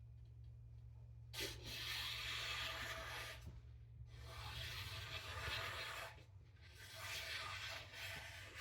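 Chef's knife blade drawn across a surface in three long rubbing strokes, each a second or two of hiss, the first starting about a second and a half in.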